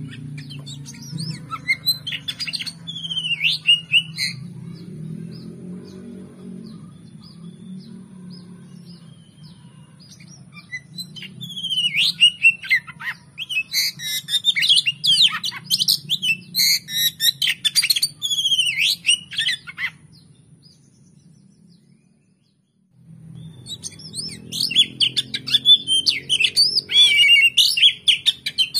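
Oriental magpie-robin (kacer) singing: rapid, varied whistled and chattering phrases, sparse at first, dense about halfway through, then breaking off briefly before a second dense burst near the end.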